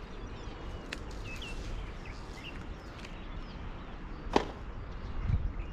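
Small birds chirping against a steady low outdoor background noise, with a brief sharp click about a second in and a louder sharp knock a little over four seconds in.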